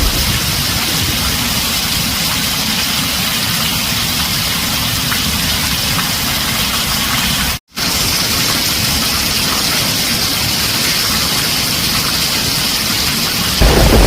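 Heavy rain on a tin roof: a steady, dense hiss. The sound cuts out completely for a split second about halfway through, and a deep rumble comes in near the end.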